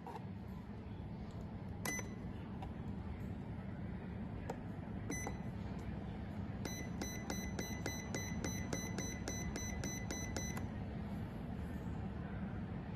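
High electronic beeps from a mini fridge's digital temperature control panel, as its buttons are pressed: one beep about two seconds in, another about five seconds in, then a quick run of about four beeps a second for roughly four seconds. A steady low hum runs underneath.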